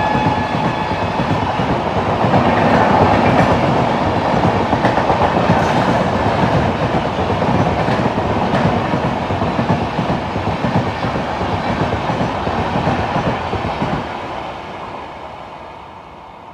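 Express train passing at high speed, a loud steady rush of wheels on rails with clickety-clack over the joints; the last note of its horn cuts off just at the start. About 14 s in the noise drops suddenly and then fades as the train moves away.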